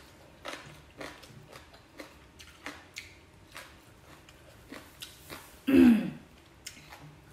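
Close-miked chewing: a person eating rice by hand, with soft wet clicks and smacks of the mouth every fraction of a second. About six seconds in comes one short, louder throat sound that falls in pitch.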